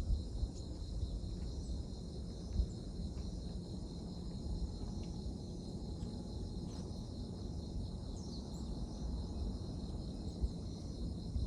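Crickets chirping steadily in a high, even drone over a constant low rumble, with a few faint ticks.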